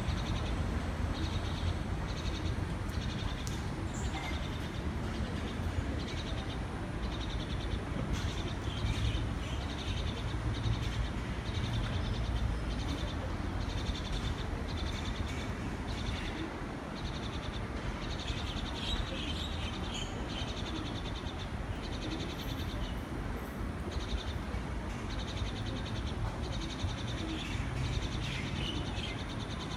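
Birds chirping in quick repeated clusters of short high notes, over a steady low rumble.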